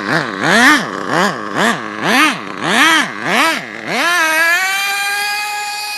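HPI 4.1 nitro engine in an HPI Savage RC truck revved in about seven quick blips, then held at a steady high rev from about four seconds in. The engine revs freely while the drive slips, which the driver suspects is a failing gear.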